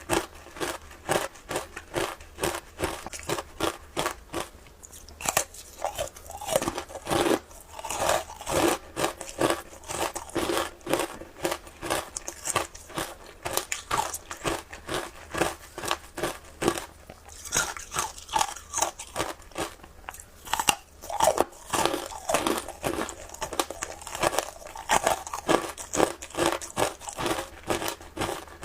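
Close-up crunching of frozen shaved ice being bitten and chewed, a rapid train of sharp crackles several times a second with brief pauses between mouthfuls.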